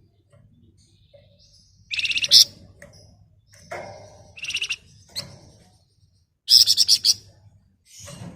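Flamboyan songbird giving three short bursts of fast, dense, shrill rattling chatter, the 'ngebren' song prized by bird keepers.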